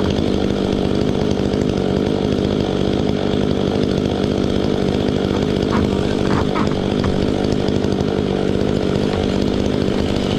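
Stihl MS 500i chainsaw running at a steady high speed, holding one even pitch while it cuts into a tree trunk.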